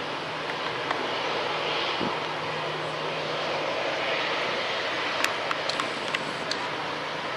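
Airbus A321-211 airliner's CFM56 turbofan engines running, a steady rushing noise, with a handful of sharp clicks a little past the middle.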